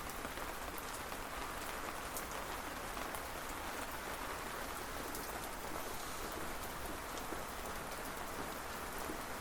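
Steady rain falling, an even hiss with the fine patter of individual drops striking a surface.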